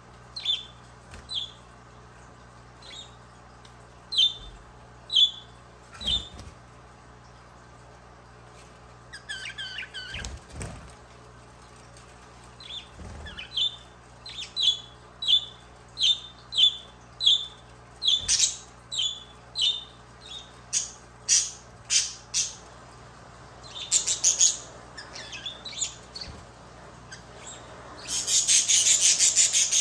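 Budgerigar chirping: short sharp calls, at first spaced out, then a quick run of about two a second, with a brief chattering warble about ten seconds in and a loud harsh burst near the end.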